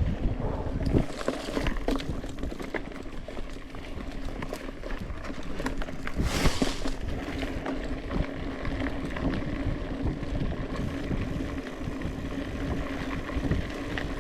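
Mountain bike being ridden along a trail: rumbling wind on the microphone with tyre noise and small rattles and clicks. A brief hissing rush comes about six and a half seconds in.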